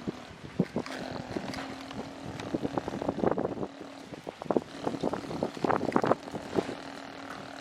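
A motor hums steadily under irregular clattering and knocking, with dense bursts of clatter about three seconds in and again near six seconds.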